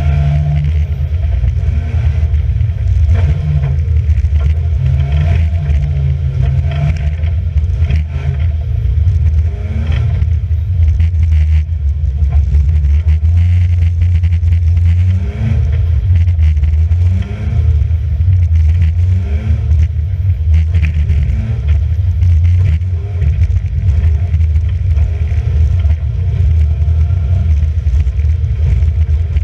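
Racing car engine heard from on board, an Alfa Romeo, running hard around the circuit. It has a deep, steady drone. Around the middle it gives a few short rising revs with brief dips between them, as it pulls through the gears.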